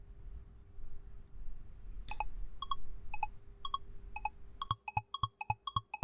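Countdown-timer tick sound effect: short pitched ticks start about two seconds in, about two a second, then speed up to about four a second near the end as the answer time runs out.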